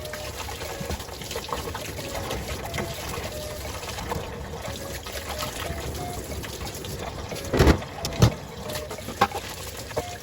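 Water running and trickling steadily, with two sharp knocks close together about eight seconds in.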